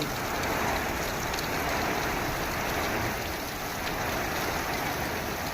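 Heavy pre-monsoon rain falling steadily in a strong wind, a constant rushing hiss with gusts rumbling on the microphone.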